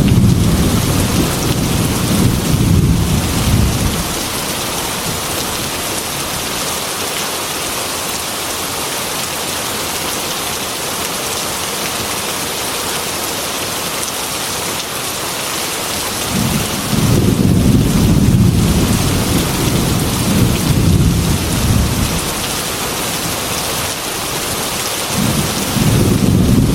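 Heavy rain falling steadily on a glass window, with rolling thunder. A long low rumble fades about four seconds in, the rain hisses on alone, then a second rumble rolls in about two-thirds of the way through and a third starts near the end.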